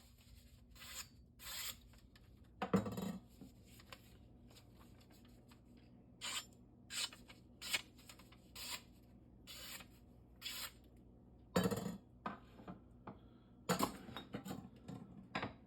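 Irregular short rubbing and scraping strokes on a whetstone as it is being cleaned, with a few louder knocks in between.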